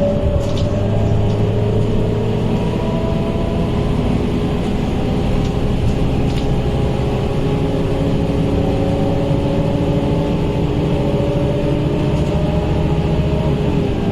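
A Scania K230UB city bus running with its diesel engine. Its pitch slowly rises and falls as it drives, over a steady loud hum that includes the radiator cooling fan, which is known for being loud on this bus.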